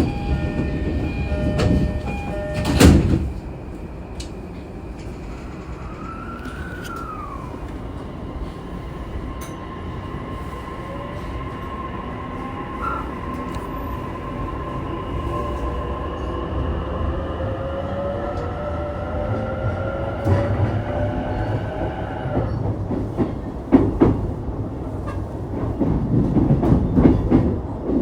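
Inside an E233 series 3000 electric train: a door chime and the doors shutting with a loud knock about three seconds in. Then the traction motors' inverter whine rises slowly in pitch as the train accelerates away, over steady running noise. The whine cuts out about three-quarters of the way through as power is shut off, leaving wheel and rail rumble with some clickety-clack.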